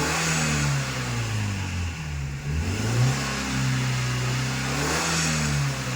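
Suzuki APV's engine revved through a valvetronic exhaust muffler set to its standard (quieter) mode. The revs ease off, climb again about two and a half seconds in, hold, and drop near the end.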